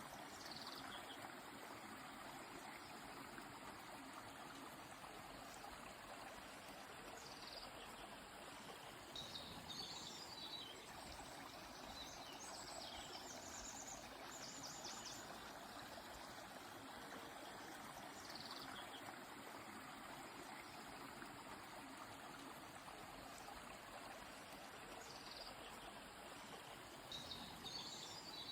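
Steady rush of a flowing stream, with small birds chirping now and then over it and a quick trill about halfway through.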